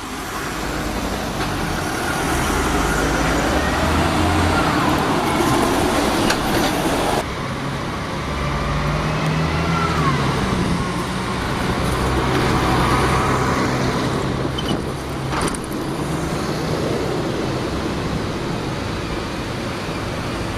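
Road traffic, with diesel vehicle engines running steadily. The sound changes abruptly about seven seconds in.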